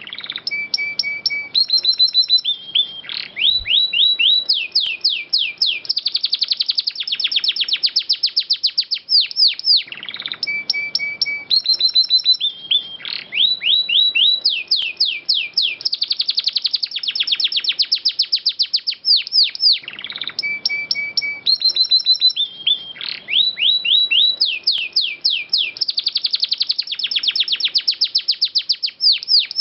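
Domestic canary singing a long rolling song of fast repeated notes, trills and falling sweeps, the same phrase of about ten seconds coming round three times.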